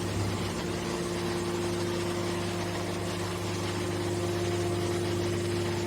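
Horizontal hydraulic baler's motor and pump running with a steady hum.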